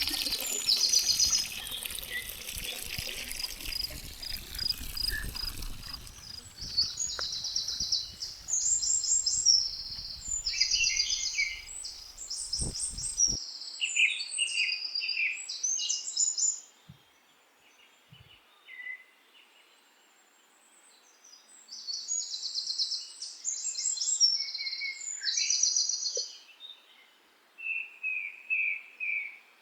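A songbird singing repeated phrases of fast high notes, with short pauses between them. A rushing noise with a low rumble lies under the song for the first half and cuts off abruptly about thirteen seconds in.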